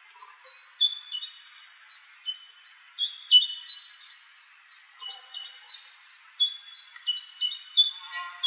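Woodland birdsong: a continuous run of short, clear, high whistled notes, about three a second, stepping between a few pitches. A brief lower call joins near the end.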